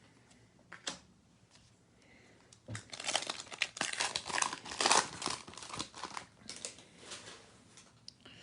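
A trading card pack wrapper being torn open and crinkled by hand: a dense run of crackling and ripping that starts about three seconds in and dies away near the end, after a single light click.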